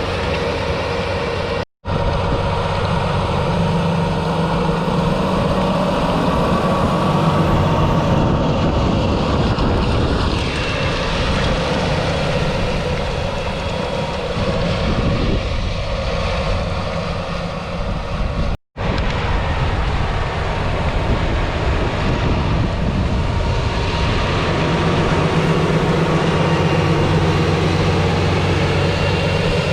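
Valtra T214 tractor's 7.4-litre six-cylinder diesel engine running steadily. The sound cuts out for a split second twice, about two seconds in and again near the middle.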